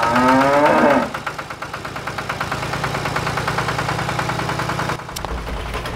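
Tractor engine idling with a fast, even chugging beat. About five seconds in it gives way to a deeper rumble.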